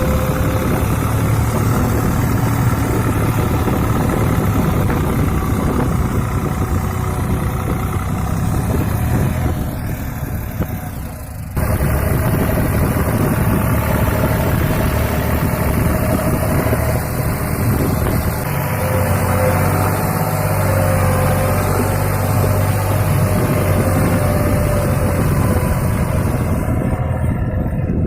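Eicher 368 tractor's two-cylinder diesel engine running steadily while hauling a trolley. Around ten seconds in the sound dips briefly, then cuts back abruptly to full level.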